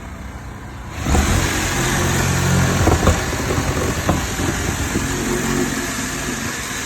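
A heavy machine's engine revs up abruptly about a second in and keeps running hard under load, with a couple of sharp knocks.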